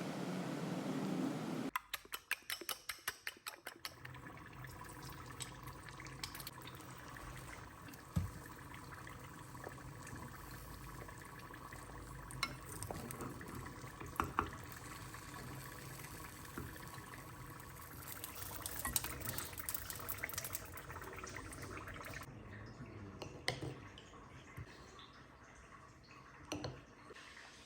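Kitchen handling sounds: dishes and cutlery clinking, with water or liquid pouring. A quick run of clicks comes near the start.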